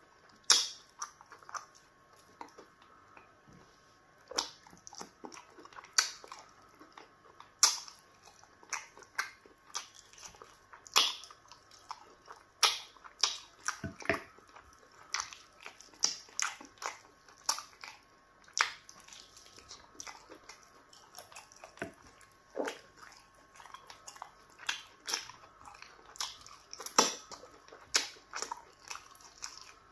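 Close-miked eating sounds: wet chewing, lip smacks and sharp irregular clicks, about one or two a second, as meat is bitten and pulled from a bone by hand.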